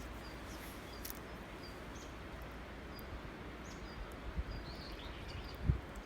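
A small bird chirping over steady outdoor background noise, giving short high calls about every half second. Near the end come two low thumps, the second louder.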